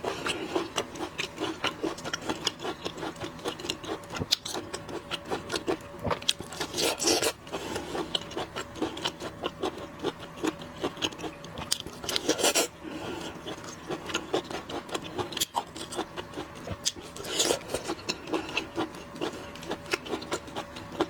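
Close-miked eating of shrimp: chewing and crunching with shells cracking, a dense run of small crackles with louder crunches about 7, 12 and 17 seconds in.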